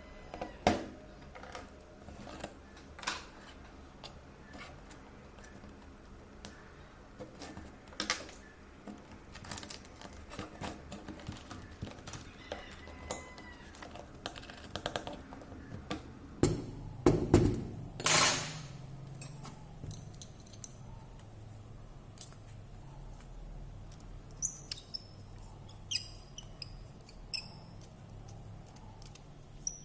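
Small tools and parts of an iPhone clicking, tapping and scraping as it is handled and taken apart, with a louder rasping scrape about seventeen seconds in and a few small high squeaks near the end.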